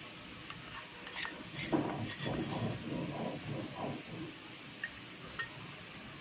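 A spoon tapping and scraping against a mixing bowl as cornflour is spooned into a chicken marinade, with a few light clinks and a stretch of soft handling noise in the middle.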